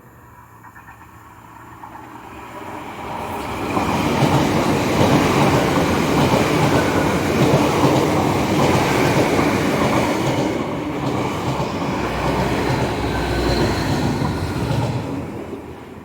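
A nine-coach Class 802 IET bi-mode train passes slowly on its underfloor diesel engines. The rumble of engines and wheels builds over the first few seconds, holds steady, then fades near the end.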